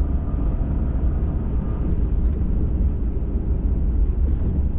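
Pickup truck driving, with a steady low engine and road rumble heard from inside the cab.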